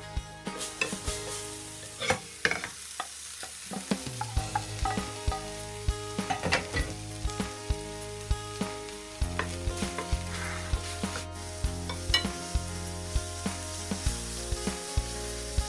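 Diced eggplant and meat frying in oil in a frying pan with a steady sizzle. A utensil clicks and scrapes against the pan again and again as the food is stirred.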